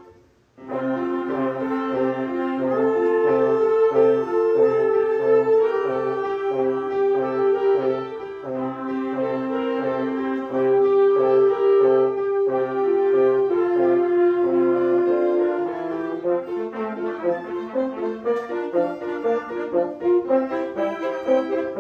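Small mixed ensemble of winds, brass, violin and piano playing a slow hymn arrangement. After a brief pause at the start, a sustained melody moves over a steady repeated low note, and the texture grows busier from about 15 seconds in.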